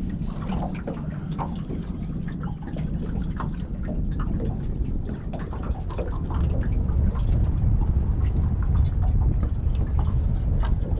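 Water lapping and splashing in small irregular bursts against a small boat, over a steady rumble of wind on the microphone that grows louder in the second half.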